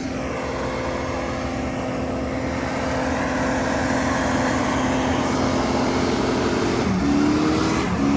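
A vehicle engine held at high revs, its steady note getting gradually louder; near the end the pitch drops and climbs back up twice.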